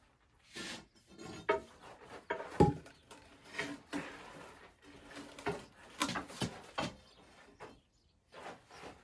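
Irregular wooden knocks, creaks and scrapes as a heavy Brown & Sharpe No. 2 milling machine is pried along on wooden log rollers over concrete, with the sharpest knock about two and a half seconds in.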